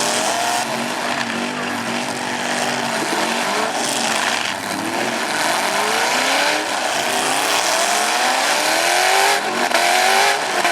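Several demolition derby truck engines revving hard at once. Their pitch climbs and drops again and again over a loud, steady wash of noise.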